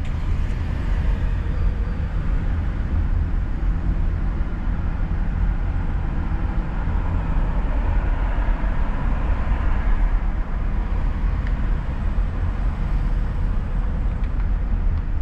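Steady road and engine noise of a car being driven, a constant low rumble with no sudden bangs.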